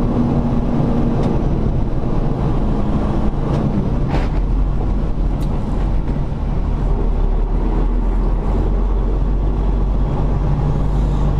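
Semi truck's diesel engine running at low speed, a steady low rumble heard from inside the cab, its note shifting and deepening about four seconds in.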